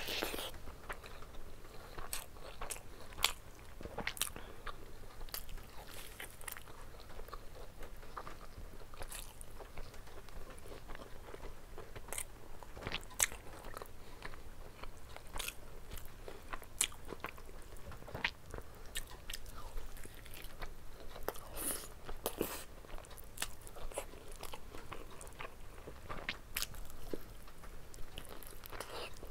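Close-miked eating: a person biting and chewing mouthfuls of rice and curried chicken, with many irregular sharp mouth clicks.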